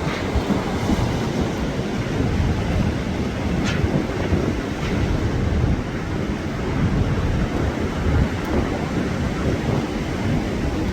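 Storm-force wind blowing steadily, with wind rumbling on the microphone.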